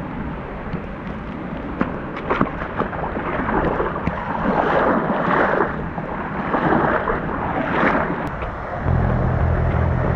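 Rushing water with a few splashes and sharp knocks, swelling several times in the middle. Music with a low, steady tone comes in near the end.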